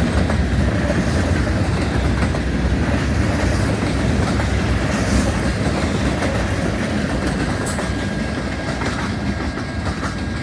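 Freight cars of a manifest train rolling past: a steady rumble of steel wheels on rail with scattered clicks, easing off slightly near the end.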